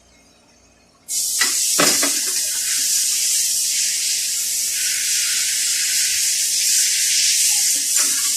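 A steady high-pitched hiss starts suddenly about a second in and runs on, with two short knocks soon after it starts and another near the end.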